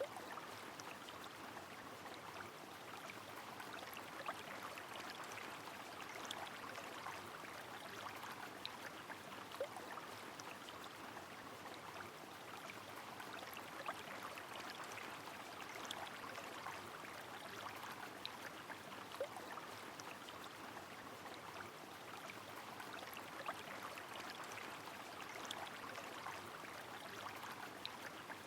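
Rain on a river: the steady rush of flowing water, with scattered sharp drops ticking over it throughout.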